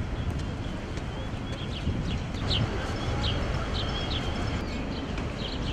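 Small birds chirping in short, repeated high calls, several in a row near the middle and again near the end, over a steady low outdoor rumble.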